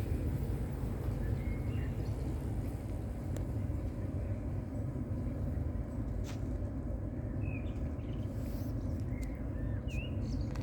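Steady low rumble with a few short bird chirps and a couple of sharp clicks.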